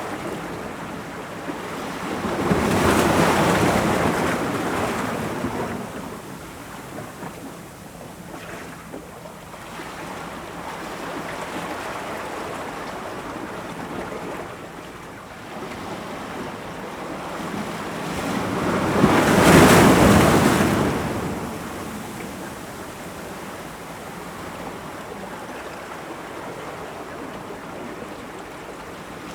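Ocean waves breaking on rocks, with a steady wash of surf between two larger breakers that swell up about three seconds in and again about twenty seconds in.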